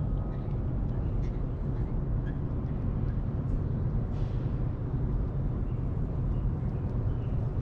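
Steady low outdoor background rumble, even throughout, with faint small sounds scattered above it.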